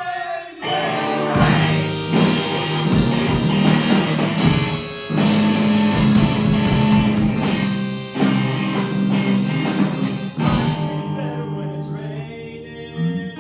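Live band music, with guitar and drum kit playing a full instrumental passage. About eleven seconds in the band drops away, leaving a sparser guitar part.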